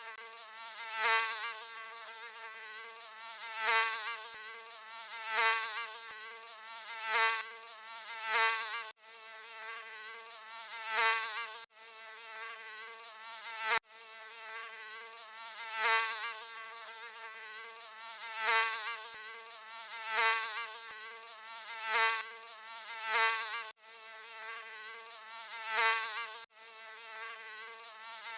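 Mosquito wing buzz, a high whine with a wavering pitch that swells louder every couple of seconds, as in a fly-past by the ear. The sound breaks off for an instant about five times, at the joins of the looped recording.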